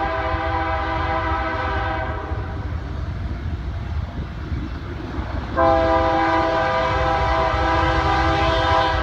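BNSF diesel locomotive air horn sounding a multi-note chord in two long blasts: the first ends about two seconds in, the second starts a little past halfway and holds to the end. A steady low rumble of the passing locomotives runs underneath.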